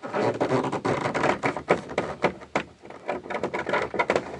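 Quick, irregular clatter of knocks and rattles as a jammed interior panel is worked loose by hand.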